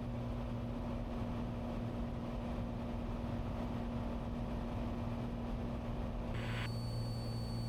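Steady low drone of a Cessna 182's piston engine and propeller in the cockpit on final approach, with a faint hiss joining about six seconds in.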